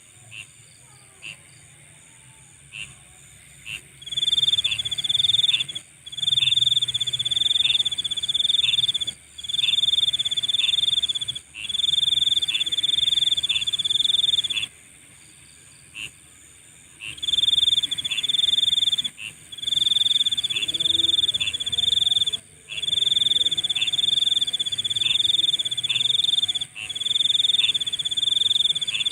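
Night insects calling. A high, buzzing trill comes in bursts of a few seconds with short breaks, starting about four seconds in, over sparse short chirps about once a second.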